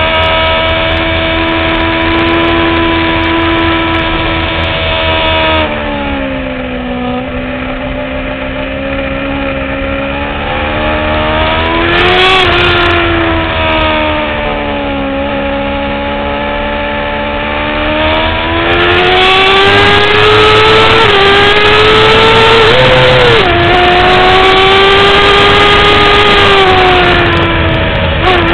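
2009 Kawasaki ZX-6R inline-four sport-bike engine at high revs on track, heard onboard. The pitch falls about five seconds in and again around twelve seconds as the bike slows for corners, then climbs as it drives out, with a short dip near the end at a gear change.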